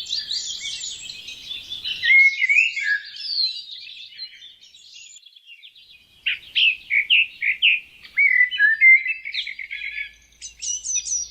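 Small songbirds chirping and singing: many quick high notes and short glides overlapping, quieter for a couple of seconds in the middle.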